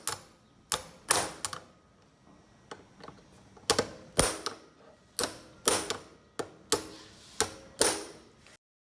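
Hammer blows on a stuck metal fastener, striking it to shock it free: a dozen or so sharp metallic strikes, some in quick pairs, with a short pause near the middle. The sound cuts off abruptly shortly before the end.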